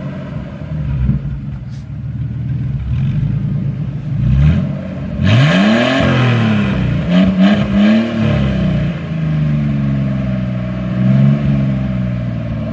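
Ford EL Falcon engine running with its cat-back exhaust removed, so it runs open and loud, blipped up and back down several times, with the biggest revs about five to eight seconds in.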